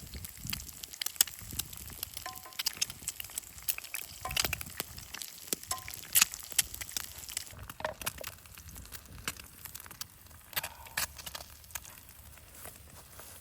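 Campfire cooking sounds: irregular crackles and sharp pops, louder around the middle, thinning out toward the end.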